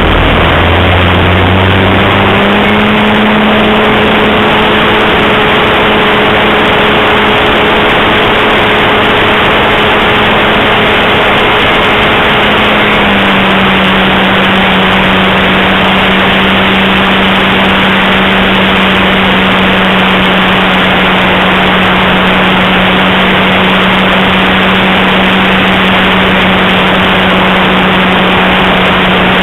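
E-flite Mini Pulse XT RC airplane's electric motor and propeller humming steadily in flight, recorded by a camera mounted under the plane, under heavy wind rush on the microphone. The hum drops slightly in pitch about 13 seconds in, as the throttle eases back.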